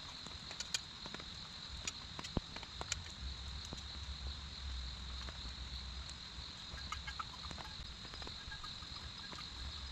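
Steady high-pitched drone of insects, with scattered sharp ticks and taps over it.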